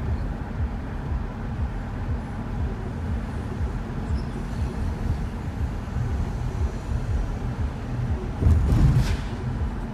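Steady low road and engine rumble heard from inside a moving shuttle van, with a louder bump or knock near the end.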